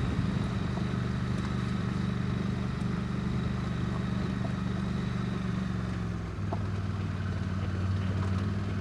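KTM LC8c parallel-twin motorcycle engine running under steady throttle on a gravel climb. About six seconds in the engine note drops briefly and settles at a lower pitch.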